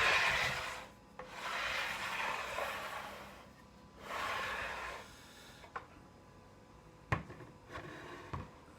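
Rubbing and scraping as the track saw and its guide rail are handled: three long scraping swells, then a few light knocks.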